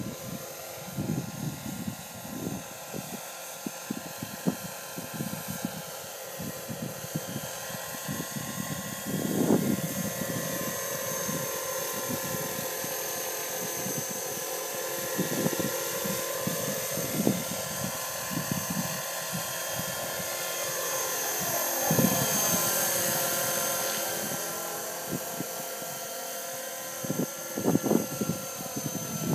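Radio-controlled MD500 scale model helicopter flying, with a steady high-pitched whine that drifts slightly in pitch and swells about two-thirds of the way through. Irregular low buffeting thuds run underneath.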